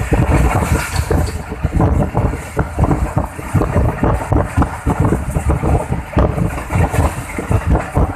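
Running noise of a moving passenger train heard at an open window: a loud, uneven rumble and rattle of the carriage on the rails.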